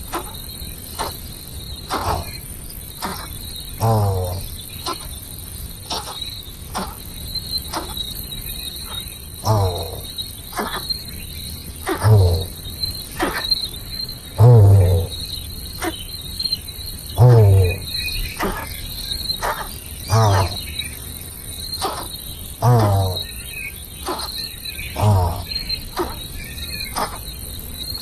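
Steady chirping of crickets, with a loud call that drops in pitch repeated about every two to three seconds.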